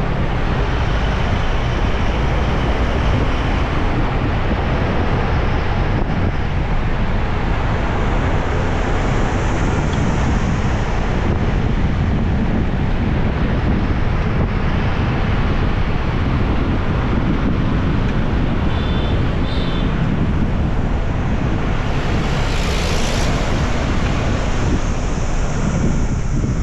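Wind buffeting the microphone on a moving motorbike, over the steady noise of the bike and surrounding road traffic. A brief hiss stands out near the end.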